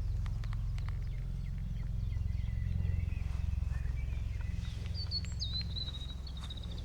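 Songbirds singing in a forest: a thin high song from about two seconds in, then a brighter whistled phrase near the end, over a steady low rumble.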